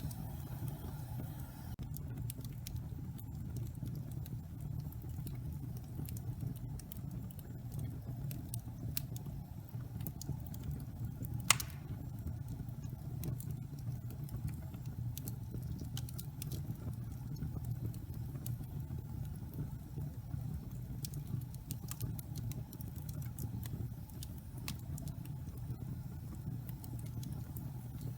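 Wood logs burning in a fireplace: a steady low rumble of flame with scattered small crackles, and one loud pop about halfway through.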